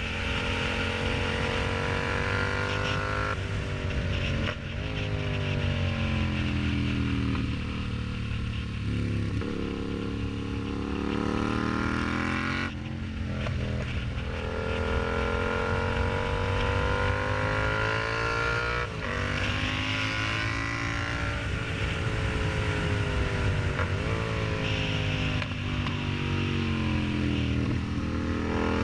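Yamaha MT-07's 689 cc parallel-twin engine through an aftermarket exhaust, on the move: the pitch climbs under acceleration and drops sharply at each upshift, several times over, with stretches of easing off in between.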